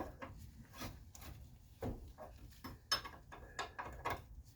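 Irregular light clicks and clanks of hand tools on metal, a few a second, as someone works at a front-suspension part that is seized tight.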